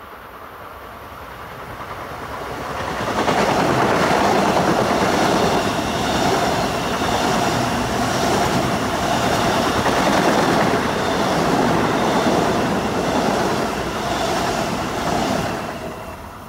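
Long Island Rail Road electric multiple-unit commuter train passing through the station at speed without stopping. The sound builds over the first three seconds, stays loud for about twelve seconds as the cars go by, and falls away near the end.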